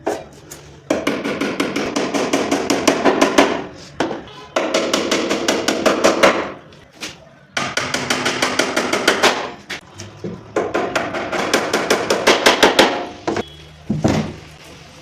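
Rapid hammering on wood, several blows a second, in runs of two to three seconds with short pauses between them.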